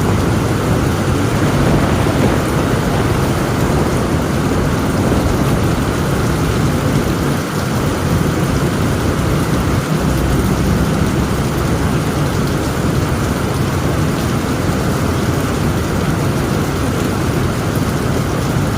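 Heavy rain pouring steadily onto a tin roof, with a low rumble of thunder underneath.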